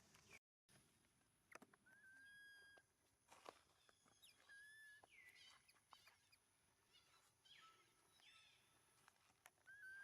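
Faint, short high-pitched animal calls, each a steady note about half a second long, heard three or four times with one falling call among them, over scattered faint clicks.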